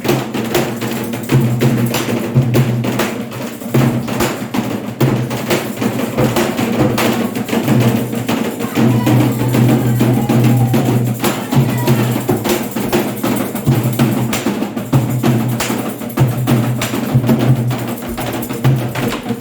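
Candomblé ritual drumming: atabaque hand drums playing a dense, steady rhythm, with a sharp clicking timekeeping part over them.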